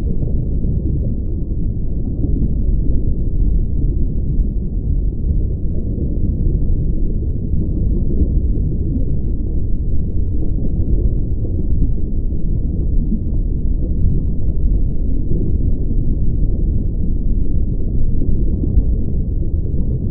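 Steady low rumbling noise with no clear tones or distinct events.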